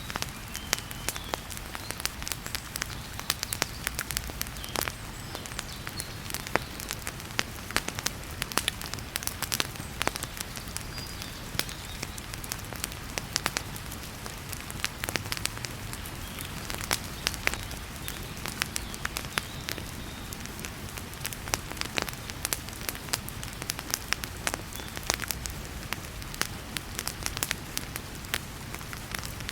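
Wood fire crackling in a fireplace, with irregular sharp pops, over the steady hiss of heavy rain.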